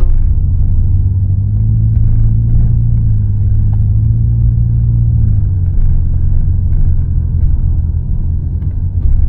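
Car cabin noise while driving: a steady low rumble of engine and road. A low hum swells for a few seconds in the middle and then eases.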